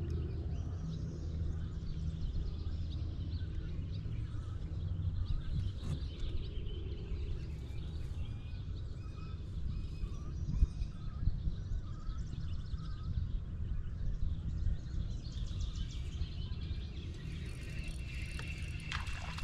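Birds chirping and calling, many short chirps scattered throughout, over a steady low rumble.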